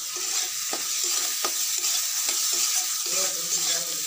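Chopped onion, chilli, ginger, garlic and tomato frying in a little mustard oil in a steel kadai, with a steady sizzle, as a spatula stirs through the spiced mixture and clicks and scrapes against the pan.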